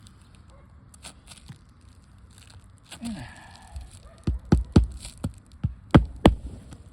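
Hammer driving a 1 1/4 inch roofing nail through a new asphalt shingle: about seven sharp strikes, roughly three a second, in the second half, after a brief scrape.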